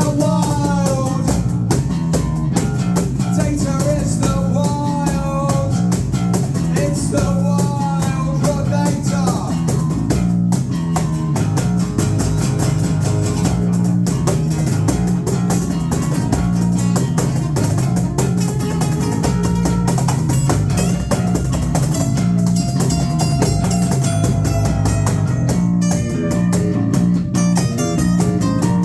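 A live rock band playing an instrumental passage of a song, with guitars and drums and a melodic lead line in the first few seconds.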